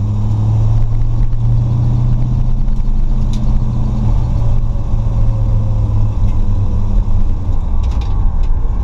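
Ford 351 (5.8L) small-block V8 with a Trick Flow stage 1 cam and Holley 650 carburettor, heard from inside the cabin while the car drives along. The engine runs with a steady low drone that eases off about six seconds in.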